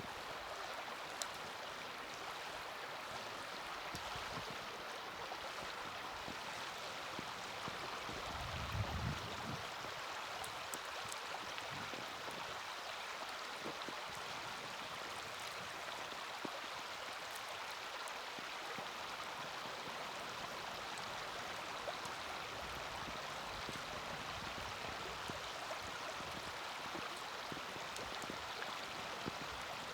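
Small wood fire in a mini fire pit giving sparse sharp crackles over a steady rushing noise like flowing water, with a low thump about nine seconds in.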